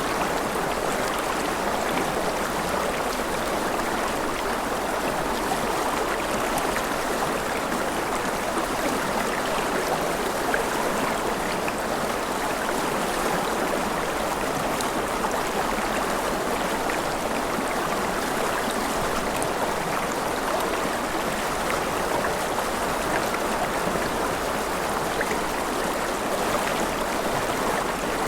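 Steady rain falling, an even, unbroken rush with fine ticks of drops through it.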